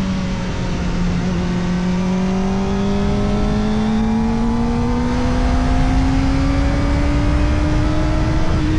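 Kawasaki Ninja ZX-4RR's 399 cc inline-four running through an Arrow Indy Race Evo titanium exhaust with the db killer fitted, pulling steadily in one gear: the engine note rises slowly and evenly the whole time. Wind rumble sits underneath.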